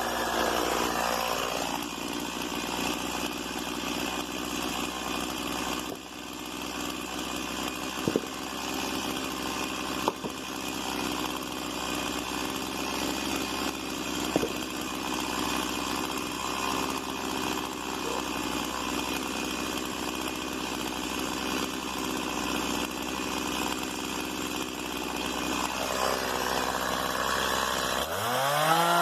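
Stihl MS 170 small two-stroke chainsaw idling steadily between cuts, with three sharp knocks along the way. Near the end the engine revs up again.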